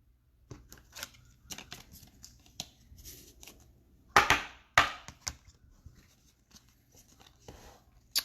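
Trading card pack wrappers being torn open and crinkled, with the cards handled in short rasps, two louder tears about four and five seconds in.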